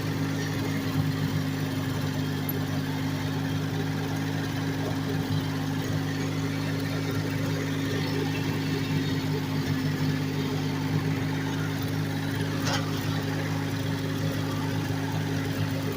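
1968 Ford 4000 tractor engine running at a steady, unchanging speed.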